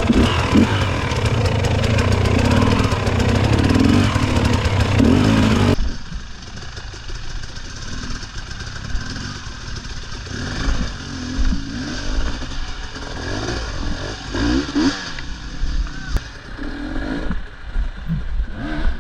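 Dirt bike engines running under throttle. About six seconds in the sound cuts abruptly to a quieter stretch with short bursts of revving.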